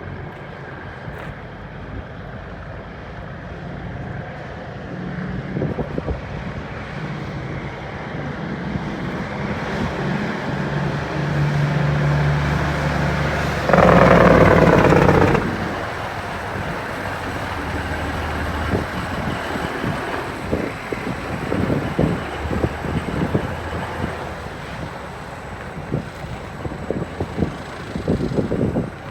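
Straight-piped Kenworth W900 semi truck's diesel engine running under way, the engine note building through the first half. A loud burst lasts about a second and a half about halfway, followed by gusty wind buffeting on the microphone.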